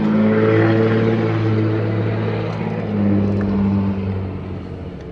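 Chrysler pickup truck's engine running just after a hard start, the revs swelling at the start and again about three seconds in, then sagging toward the end. The engine has been slow to start and keeps dying.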